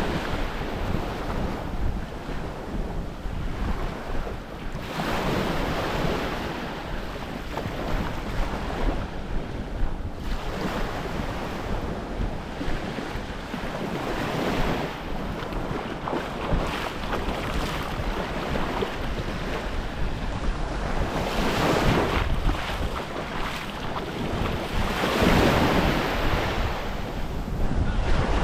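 Small waves washing onto a sandy beach, swelling and fading every few seconds, with a steady rumble of wind on the microphone.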